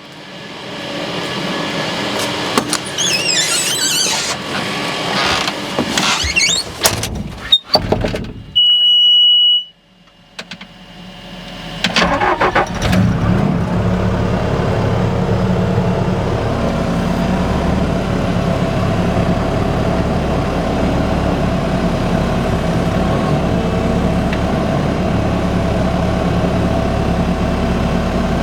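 Tractor diesel engine: a stretch of rattling and squeaking with knocks, a steady high warning beep lasting about a second, a short hush, then the engine cranks and starts about twelve seconds in and settles into a steady idle.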